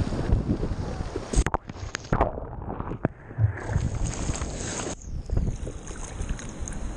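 Sea water and wind buffeting a waterproof action camera in the surf. The sound turns abruptly dull for about a second in the middle, as when the camera is dunked, with a few sharp knocks against the housing.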